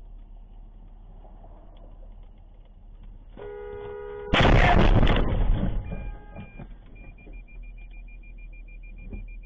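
Dashcam audio inside a car: a car horn sounds for about a second, then a loud noisy burst of about a second, typical of a collision. After that a high electronic beep repeats steadily, with a low engine hum underneath.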